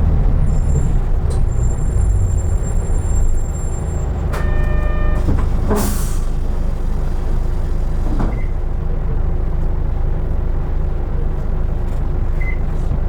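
Isuzu Erga Mio KK-LR233J1 bus's diesel engine running, heard inside the cabin; its rumble eases a few seconds in. After a brief pitched electronic tone, a short sharp hiss of compressed air from the bus's air system comes about six seconds in, and the engine then settles to a steady lower running.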